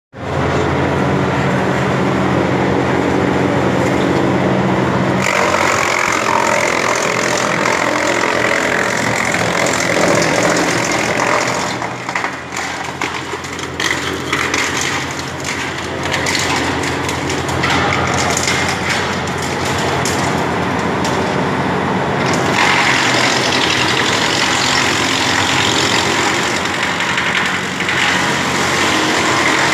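Hasatsan DP 700 wood chipper running, first with a steady drone, then grinding branches into chips from about five seconds in, with many sharp cracks as the wood is bitten. The grinding eases for a few seconds around twelve seconds in and comes back strongly a little after twenty seconds.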